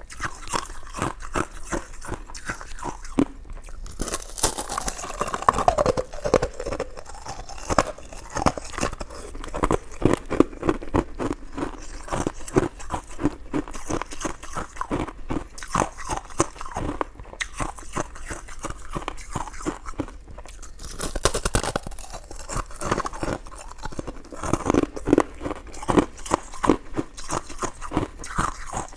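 Close-miked chewing and biting of coconut sticky rice cake: a dense run of soft, wet, sticky mouth clicks, with a few louder bites.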